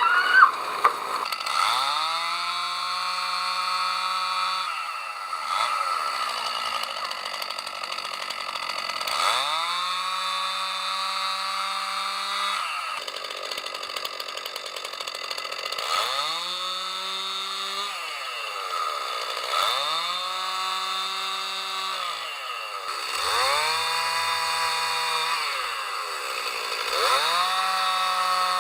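Chainsaw cutting wood in repeated cuts, one every three to four seconds. At each cut the engine pitch drops as the chain bites and holds steady under load, with brief higher revs between cuts.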